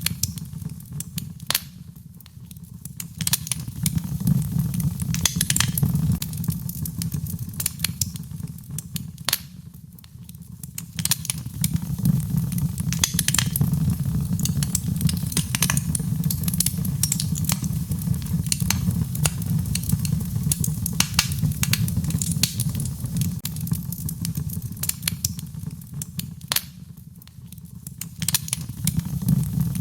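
Wood fire in a fireplace crackling, with frequent sharp pops and snaps over a low, steady rumble of flames. The fire eases off and swells again a few times.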